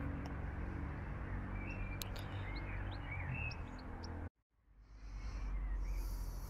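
Outdoor background: a steady low rumble with a few short bird chirps in the middle and a couple of light clicks, dropping out for a moment about four seconds in.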